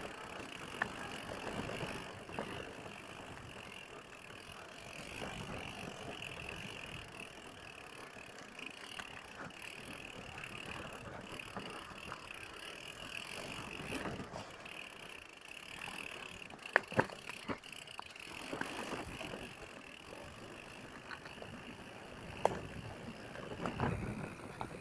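Mountain bike being ridden on a dirt trail: rear hub ratchet ticking and chain rattling over rough ground, with scattered clicks and two sharp knocks about two-thirds of the way through.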